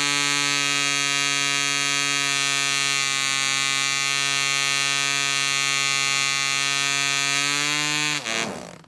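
PAW 0.5 cc model-aircraft diesel, a tiny single-cylinder two-stroke, running at a steady high speed with a thin buzzing note. About eight seconds in it cuts out, the pitch falling quickly as it runs down to a stop.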